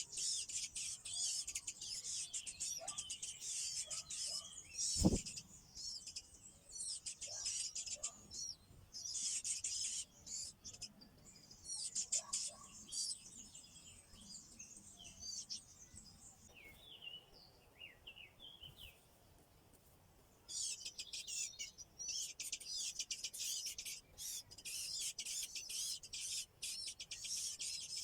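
Nestlings begging for food: dense, rapid, high-pitched chirping that comes in runs and drops away for a few seconds about two-thirds of the way through. There is a single sharp knock about five seconds in.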